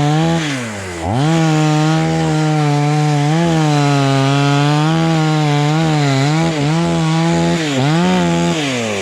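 Two-stroke chainsaw running at full throttle, cutting through dry jackfruit wood, its engine note wavering under load. About a second in it drops briefly toward idle and revs back up, and near the end it falls off toward idle again.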